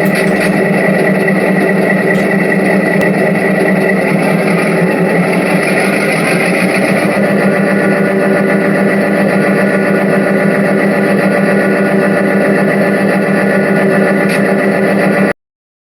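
Diesel locomotive engine running at a steady idle-like pace, then cutting off abruptly near the end.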